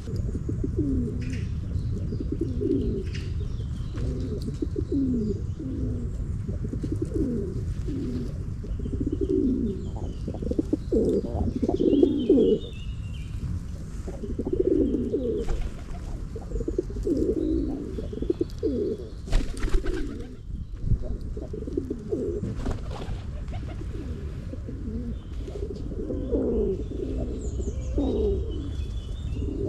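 Several pigeons cooing over and over in short, low calls, with a few higher small-bird chirps now and then over a steady low rumble.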